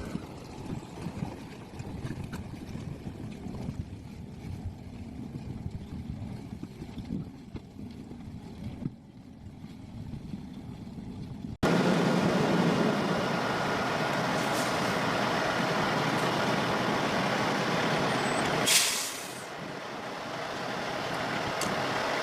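Heavy diesel machinery running. After an abrupt cut halfway through, a louder engine runs steadily, with a short sharp hiss of released air, like an air brake, about three seconds before the end.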